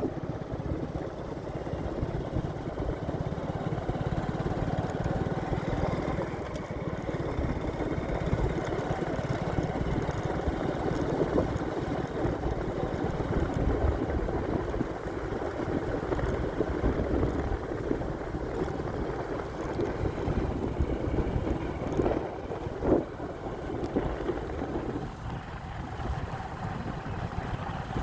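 Motorcycle engine running steadily while riding, mixed with wind buffeting the microphone, with a short louder knock about three quarters of the way through.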